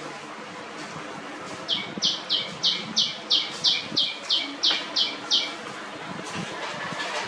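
A bird calling: a run of about a dozen short, evenly spaced high chirps, about three a second, lasting some four seconds.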